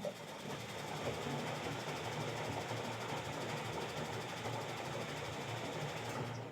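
Bosch Maxx 5 washing machine running: a steady motor hum with a dense mechanical whirr that cuts off suddenly near the end.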